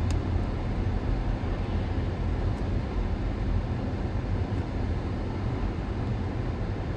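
Strong gusting wind blowing a steady rumble across the microphone, with a rushing noise behind it.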